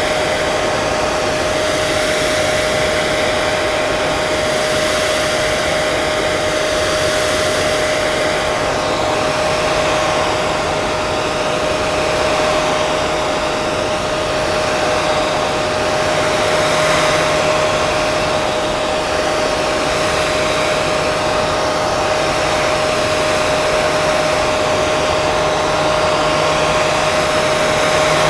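Hair dryer running continuously: a steady rush of blown air with a constant motor whine.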